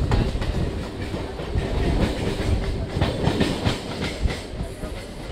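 Two Mumbai suburban electric local trains running side by side at speed, heard from the open doorway of one: a steady low rumble with wheels clattering irregularly over the rail joints.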